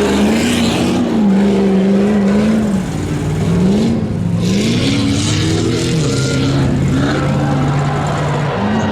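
Stock pickup truck engine revving up and down over and over as the throttle is worked, with bursts of hiss about four to six seconds in.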